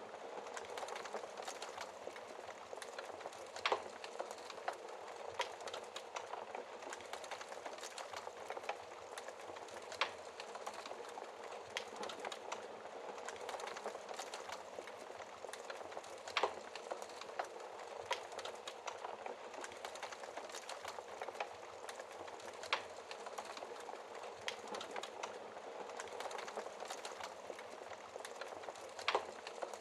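Wood fire crackling with scattered small pops and a louder sharp pop about every six seconds, over a steady hiss of falling rain.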